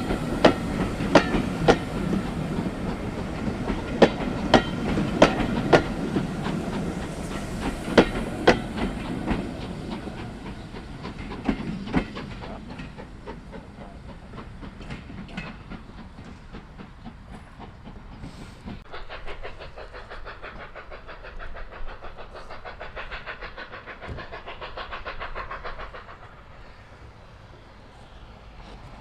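A passing train's wheels clacking over rail joints with a rumble, loudest at first and fading steadily as the train moves away.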